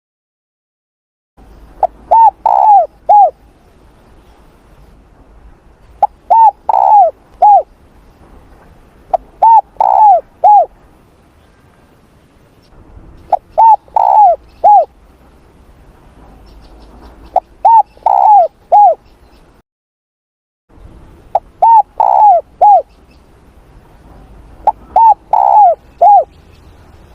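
Spotted dove cooing: short phrases of several arching coos, repeated about every four seconds, seven phrases in all.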